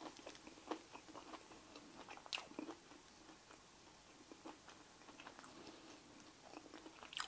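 A person chewing a mouthful of crisp breadcrumb-coated fish cake, faint, with scattered soft crunches and mouth clicks.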